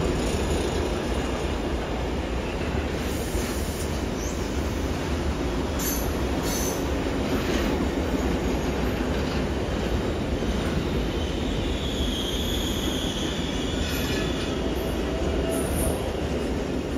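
Intermodal freight train of container flat wagons rolling past at steady speed: a continuous rumble of wheels on rail, with brief high-pitched wheel squeals now and then.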